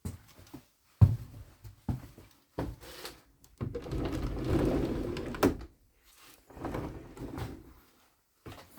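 A few knocks and thuds, then a rumble of about two seconds that ends in a sharp bang, and a shorter rumble after it. These are the sounds of a door or fitting in an old railway carriage being moved and knocked.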